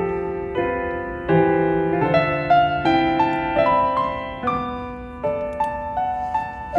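Slow, gentle solo piano music, single notes and chords struck and left to ring and fade.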